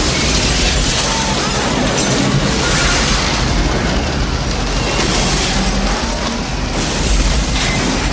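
Movie-trailer soundtrack: music mixed with a dense, loud rushing noise and deep booms from the storm scenes.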